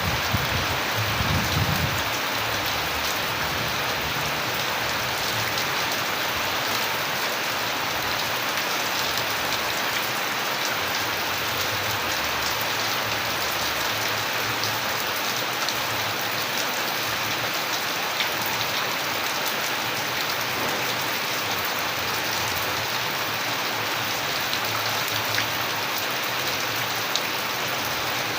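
Steady rain falling on surfaces, with individual drops ticking through it. A brief low rumble comes in about a second in.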